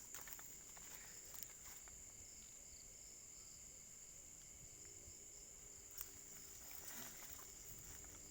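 Insects keeping up a steady high-pitched drone, faint, with a few soft clicks, one about six seconds in.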